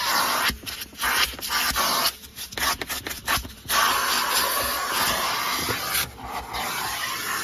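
Numatic Henry vacuum cleaner running, its nozzle rubbing and scraping over a car's interior. The hiss of the suction drops away and comes back several times.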